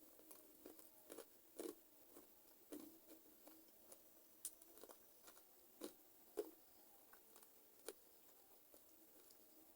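Close-up chewing and biting of chicken feet: irregular crunches and wet clicks of skin and cartilage being bitten, with a few louder crunches about one and a half seconds and six seconds in.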